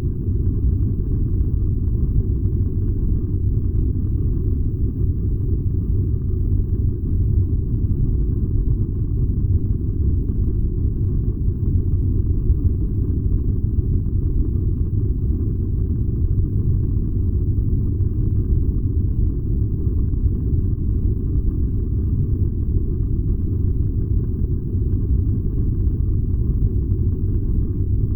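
Furnace running with a steady, unbroken low rumble that does not change.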